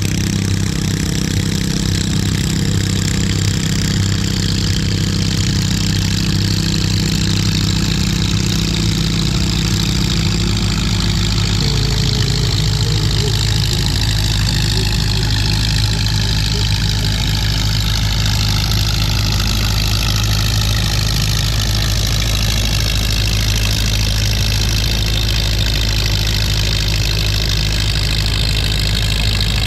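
Antique farm tractor engine running steadily and loud, its note shifting about twelve seconds in.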